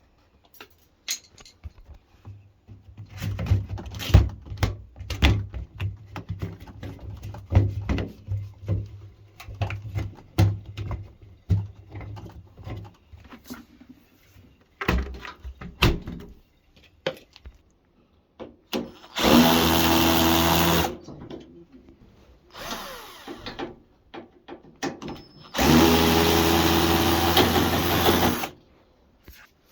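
A power drill runs in two bursts of about a second and a half and two and a half seconds. Before them come many scattered clicks and knocks of tools and parts being handled.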